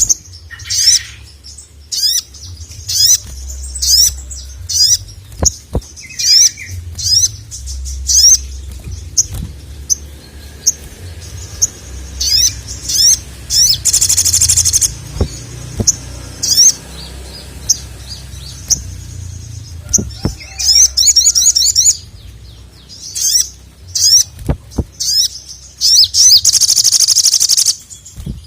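Sogon (sogok ontong) singing energetically: a fast run of short, high chirps and sweeping notes, broken twice by a long, dense buzzing trill, the second near the end. A low steady rumble and a few sharp clicks lie underneath.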